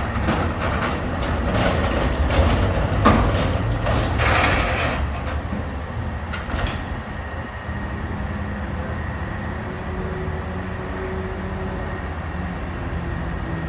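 Garbage truck's diesel engine running, with clattering in the first few seconds, a sharp knock about three seconds in and a short hiss just after. It then settles into a steady low hum.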